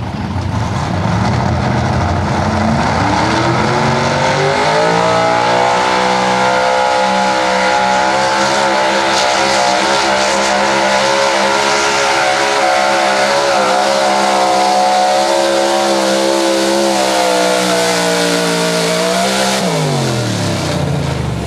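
Open-class 4x4 pulling truck's engine making a pull: the revs climb over a couple of seconds, hold high and steady under load for about fifteen seconds, then drop sharply near the end as the throttle comes off.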